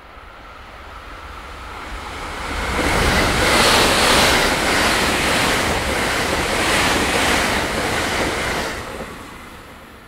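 Thunderbird limited express, a 681/683-series electric multiple unit, passing at speed. A rushing noise of wheels and air builds from about two seconds in, stays loud with a regular swelling beat as the cars go by, and fades away near the end.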